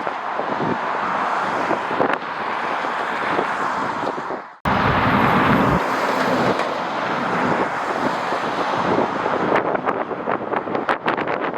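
Strong gusty wind rushing and buffeting against the microphone, cut off abruptly about four and a half seconds in and resuming straight away, with sharp buffets near the end.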